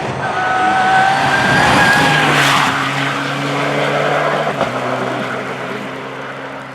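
Rally car passing on a special stage, tyres squealing through the corner in the first two seconds, then its engine note holding steady and fading as it drives away.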